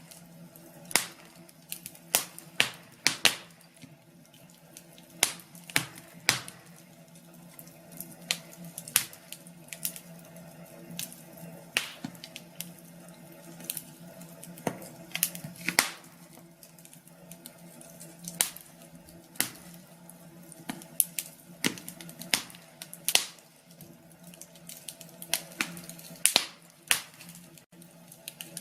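Wood fire in a fireplace crackling, with irregular sharp snaps and a few louder pops every second or so over a faint steady hum.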